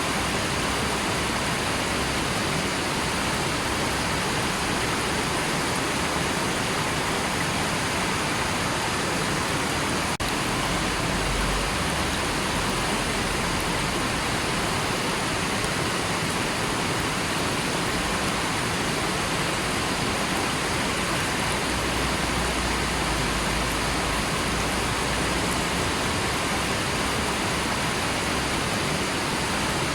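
River water rushing and flowing in a steady, unbroken wash of sound.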